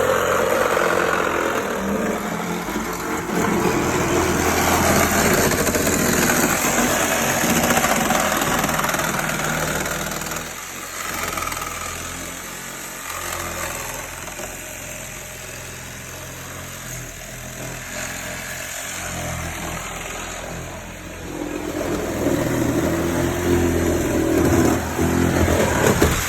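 Heavy machinery's engine running under varying load while a truck is cut up for scrap, with a wide noisy spread over it. It is louder for the first ten seconds and again for the last five, easing off in between.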